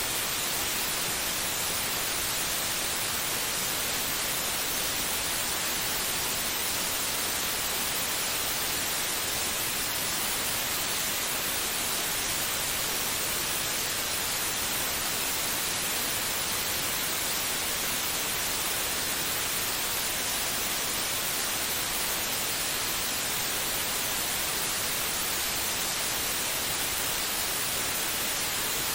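Steady white noise: an even, unbroken hiss with no rhythm, beat or change.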